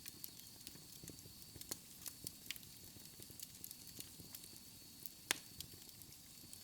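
Wood fire crackling in a fireplace: irregular sharp pops and snaps over a low steady rumble, with one louder pop about five seconds in.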